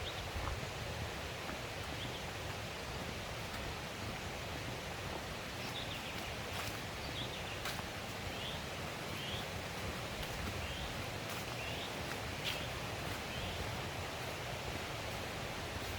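Steady rush of a mountain stream, with a small bird chirping a quick series of short calls from about a third of the way in until near the end, and a few sharp clicks.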